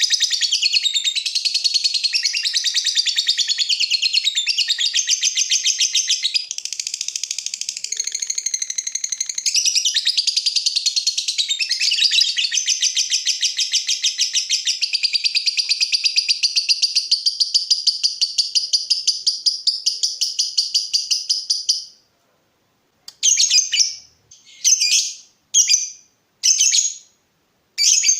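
Lovebird singing a long 'ngekek' chatter: rapid, high-pitched clicking notes run without a break for about twenty-two seconds, then stop. Several short chattering bursts, roughly a second apart, follow near the end.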